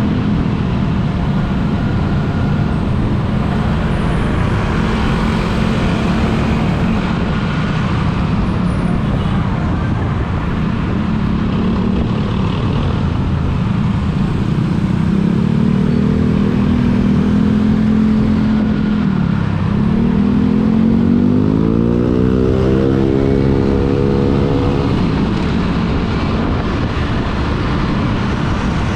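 A road vehicle's engine running steadily while driving in traffic, with road noise. About two-thirds through, the engine note drops as it slows, then rises for a few seconds as it accelerates again.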